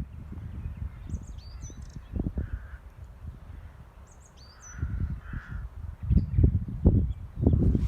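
Birds calling in the morning: a few hoarse calls and some short high chirps, over a gusting low rumble on the microphone that grows louder in the second half.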